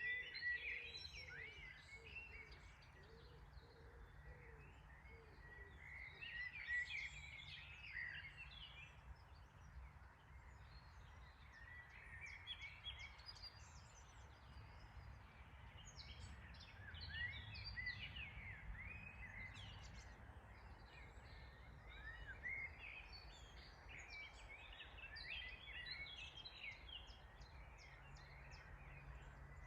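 Songbirds singing in repeated bouts of quick chirps and trills, faint, over a low steady rumble.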